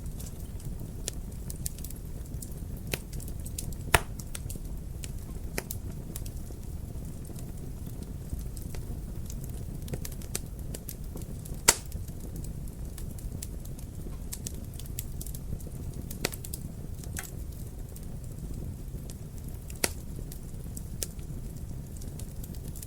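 Wood fire crackling in a fireplace: a steady low rustle of burning with scattered sharp pops and snaps, the loudest about 4 seconds in, near 12 seconds and near 20 seconds.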